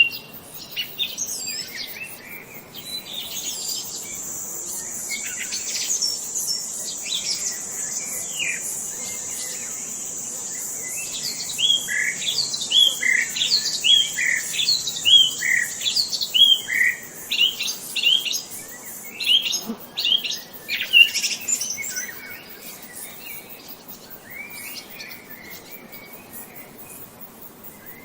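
Wild birds chirping and singing in quick repeated notes, busiest in the middle, over a steady high-pitched hiss-like buzz that stops about two thirds of the way in.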